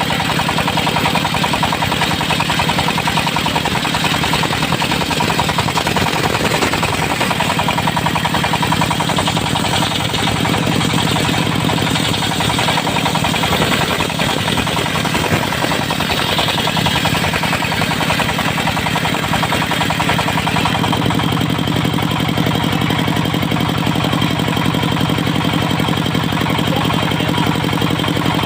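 Diesel engine of a portable circular sawmill running steadily, its circular saw blade spinning with it; the sound shifts about twenty seconds in.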